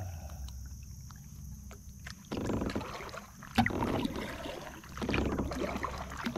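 Kayak paddle strokes: water splashing and dripping off the paddle blades, starting about two seconds in, with a sharp knock about a second later.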